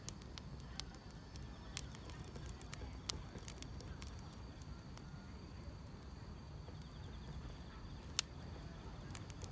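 Wood fire crackling, with scattered sharp pops, the loudest about eight seconds in, over a steady low rumble, while grass insects chirp faintly and steadily in the background.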